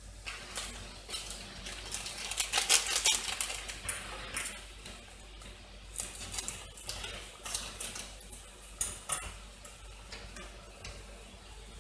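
Close-miked crunching of crisp toast being bitten and chewed: rapid dry crackles, densest about two seconds in, then scattered crunches.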